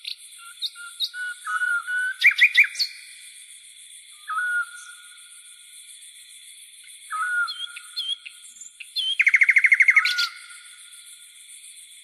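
Songbirds singing: short whistled notes repeated every second or two, a few loud sharp notes about two seconds in, and a fast trill about nine seconds in. A steady high-pitched buzz runs underneath.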